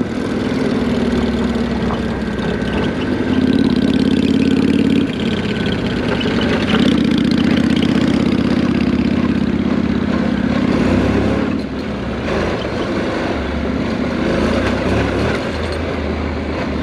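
Motorcycle engine running on the move, its note holding steady and then changing with the throttle about five seconds in and again near eleven seconds, under steady wind rush.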